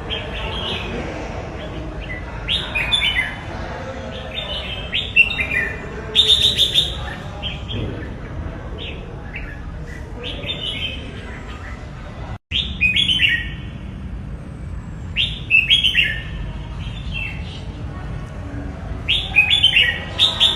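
Red-whiskered bulbul singing short, quick warbling phrases of high notes, repeated every two to four seconds over a steady background hiss. The audio drops out for an instant about twelve seconds in.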